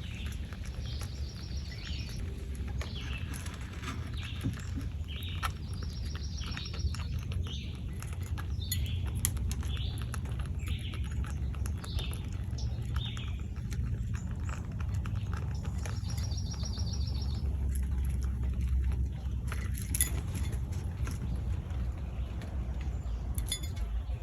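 Birds chirping on and off, with three short rapid high trills, over a steady low rumble and scattered light ticks and taps.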